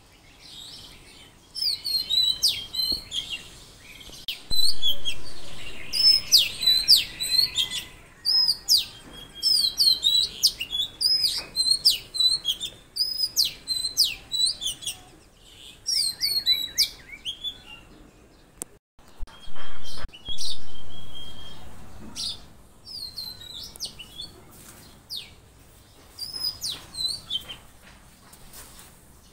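Forest birds chirping and singing: many short, high, quickly repeated calls, several birds overlapping, with gaps of a second or so between phrases.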